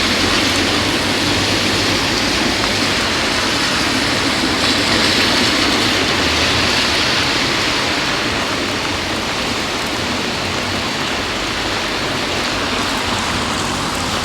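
Heavy rain falling, a steady dense hiss, with a low rumble underneath.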